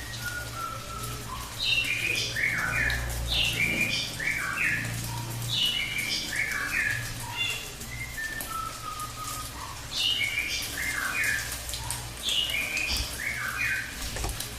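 A cililin songbird singing its rapid 'tembakan' volleys: quick runs of clear whistled notes that jump up and down in pitch, in two long bursts separated by a short pause. A steady low hum and faint hiss sit underneath.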